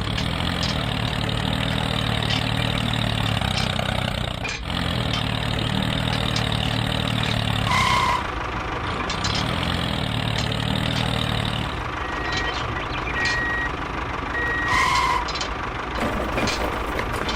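A truck-like engine running steadily, with short electronic warning beeps sounding now and then, a couple alone and a quick run of them later on.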